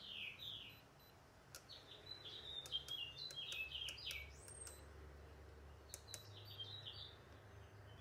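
A songbird singing in the background: quick runs of short descending chirps, in three bouts. A low steady hum and a few faint clicks lie underneath.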